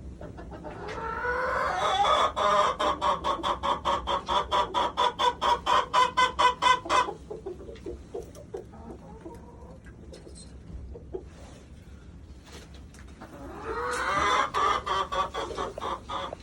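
Chicken clucking in fast repeated calls, about five a second, in a long run of several seconds. A second run starts near the end.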